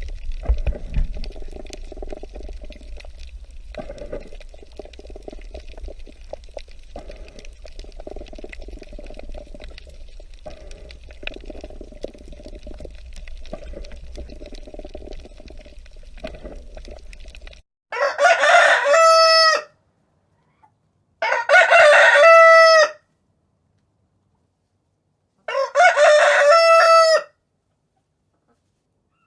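A rooster crows three times in the second half, each crow a loud call of about a second and a half with gaps of a few seconds between. Before the crows comes a long, choppy, noisy stretch over a low hum.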